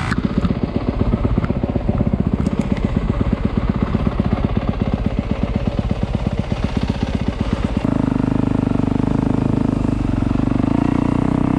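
Dirt bike engine running at low speed, its separate firing pulses clearly audible. About eight seconds in it changes abruptly to a steadier, higher engine note.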